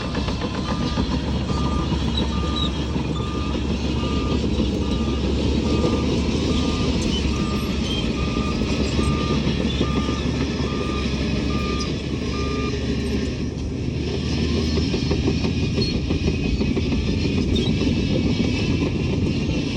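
Heavy diesel earthmoving machinery running steadily, with a reversing alarm beeping at an even pace, about once every three-quarters of a second. The beeping stops about 13 seconds in while the engine noise carries on.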